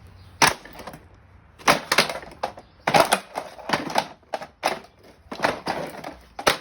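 A string of sharp, irregular hard-plastic clicks and clacks, about a dozen, as parts of a Sanitaire upright vacuum are handled and pulled apart.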